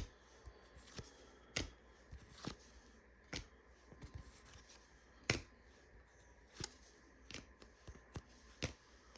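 Basketball trading cards being flipped through one at a time: a string of short, faint card snaps, irregular and roughly a second apart.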